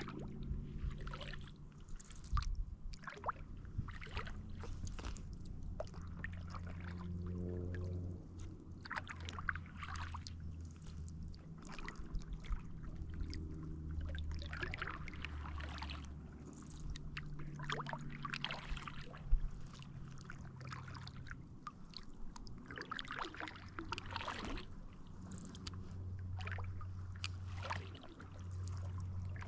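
Kayak paddle strokes: water splashing and trickling off the paddle blades every second or two, over a steady low rumble.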